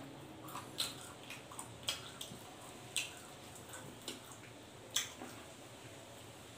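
A person chewing roast pork close to the microphone, with short wet smacks of the mouth every second or so.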